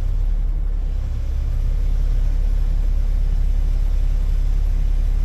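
Off-road vehicle's engine running at a steady idle: a continuous low rumble.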